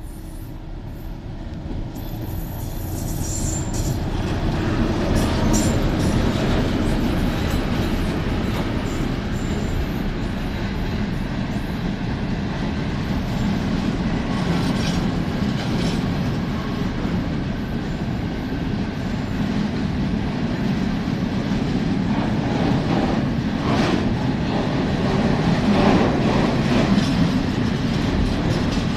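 Freight train of open-top gondola wagons rolling past close by: a steady rumble of wheels on rail that swells over the first few seconds as the train arrives. Thin high wheel squeals come about two to five seconds in, and clusters of clicks near the end as wheels cross rail joints.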